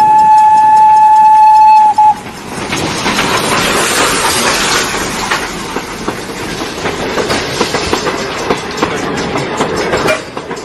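Train whistle blowing one long steady blast that stops about two seconds in, followed by the train running with a continuous rumble and clattering.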